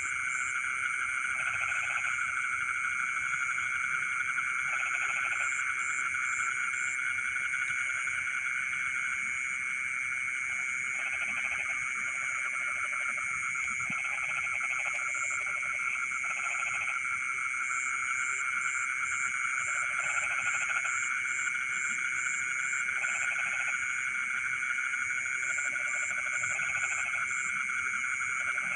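A dense chorus of rice-field frogs calling at night: a continuous trilling drone, with short lower croaks breaking in every few seconds. Runs of rapid high pulses come and go above the chorus.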